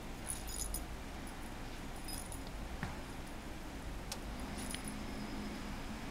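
Light metallic jingling in a few short bursts, over a low steady rumble.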